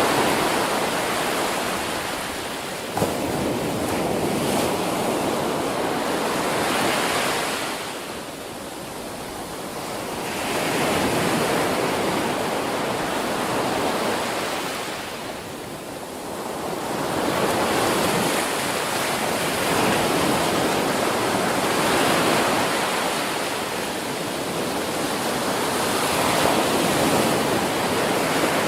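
Ocean surf breaking on a shore: a dense rush that swells and falls back in slow cycles about every eight seconds, with a brief click about three seconds in.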